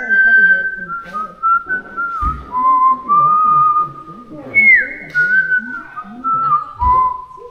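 A person whistling a slow melody, clear single notes held and stepping from pitch to pitch, with a couple of dull thumps.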